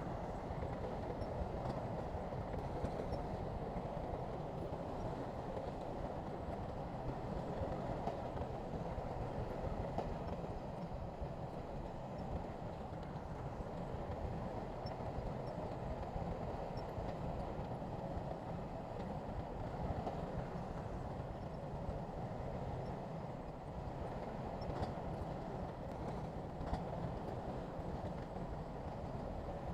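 Heavy construction machinery's diesel engine running steadily, with a continuous low rumble.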